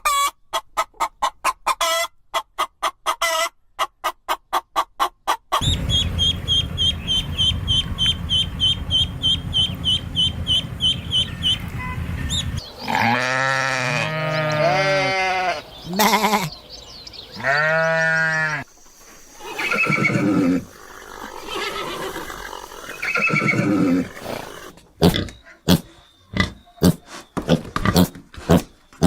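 Farm animals calling: a run of quick repeated calls, then several long calls that rise and fall in pitch midway, and more quick calls near the end.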